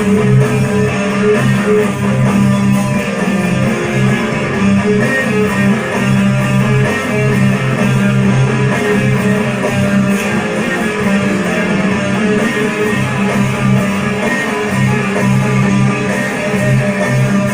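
Electric guitar playing a hard, heavy riff, a steady wall of sound with low notes repeating in a rhythm.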